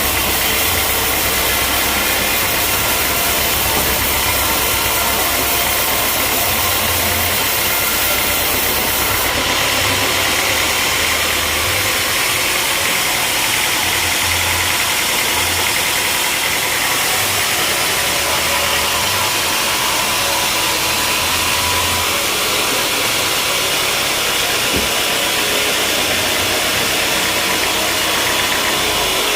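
Sawmill machinery running steadily, a continuous engine drone with a constant hiss that eases slightly about nine seconds in.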